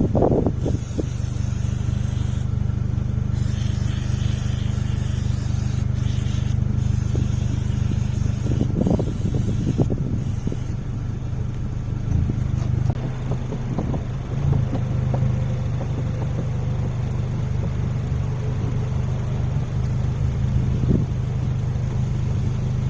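An engine idling steadily, with a stretch of hiss from about three to eleven seconds in and a few short knocks.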